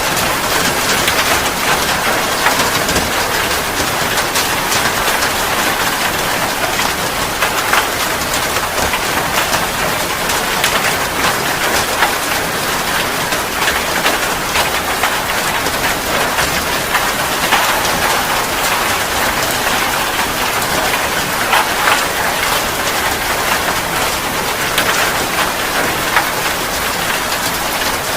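Steady rain pattering on a surface, with many sharp drop ticks over a dense even hiss.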